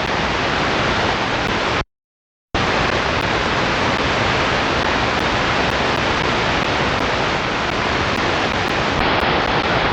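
Steady radio static hiss from an RTL-SDR receiver on the airport ground control frequency, with no transmission coming through. It cuts out completely for under a second about two seconds in, then comes back.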